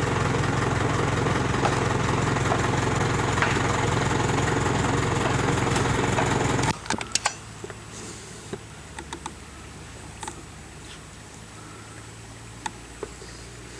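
A motor engine running steadily, cutting off abruptly about seven seconds in. After that comes a quiet background with scattered sharp clicks.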